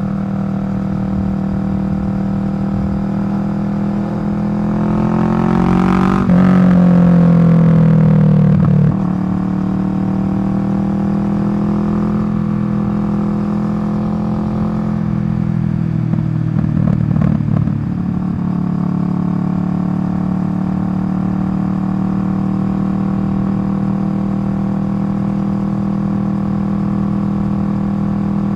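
Kawasaki Vulcan 650's parallel-twin engine running through a Delkevic slash-cut exhaust at a steady low speed. The revs rise about four seconds in, hold higher and louder for a few seconds, then drop back. A brief rougher, uneven patch follows a few seconds later.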